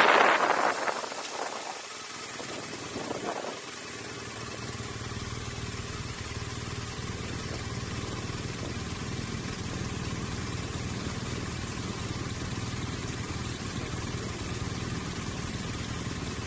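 BMW GS Adventure motorcycle coming to a stop: the wind rush of riding fades away over the first couple of seconds, and then the engine idles steadily.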